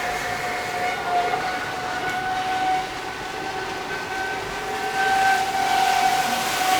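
Traxxas Spartan RC speed boat's brushless electric motor running on the water, a steady high-pitched whine that wavers slightly in pitch as the throttle changes.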